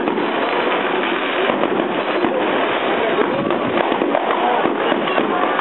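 Fireworks going off in a dense, continuous crackle of many small pops.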